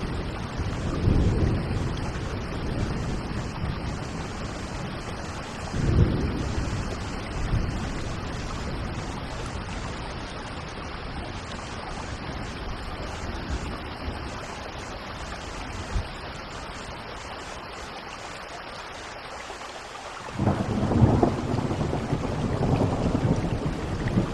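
Steady rain falling with rolling thunder: low rumbles about a second in and near six seconds, and a louder, longer peal of thunder starting about twenty seconds in.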